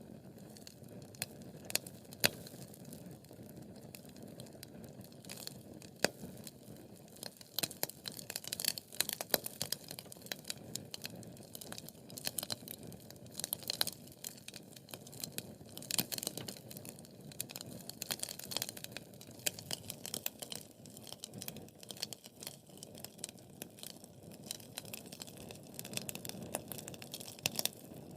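Wood fire crackling: a steady low hiss of burning logs with dense, irregular pops and snaps, coming in louder clusters.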